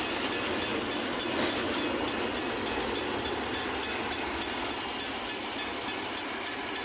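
A train running, with a steady rumble-hiss and evenly spaced sharp high-pitched clicks about three times a second.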